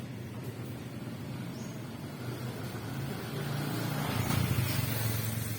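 A motor vehicle engine running, growing louder from about three seconds in and easing again near the end.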